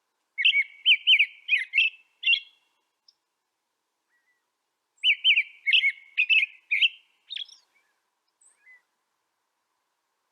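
A songbird singing two short phrases of quick, looping whistled notes, each about two seconds long: the first comes just after the start and the second about five seconds in. A few faint single notes follow near the end.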